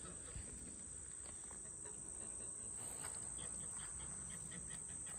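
Insects droning in a steady high-pitched chorus, with a quick run of short high chirps about three seconds in, over a low rumble.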